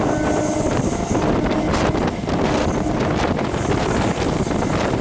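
Wind buffeting the microphone over the steady running noise of an electric multiple unit local train at speed, heard from its open doorway.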